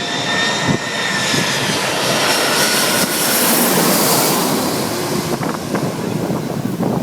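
Airbus A340-300 jet airliner on its landing approach, its four turbofan engines passing close by. The roar swells to a peak about three to four seconds in and then eases, with a thin engine whine sliding slightly down in pitch.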